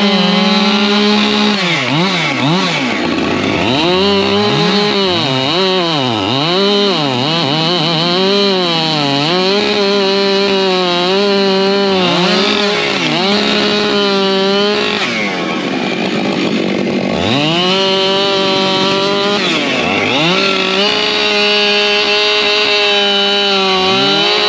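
Two Husqvarna two-stroke chainsaws cutting logs at the same time. One holds a steady high pitch at full throttle, while the other's pitch keeps dropping deep and climbing back as it bogs in the cut and frees.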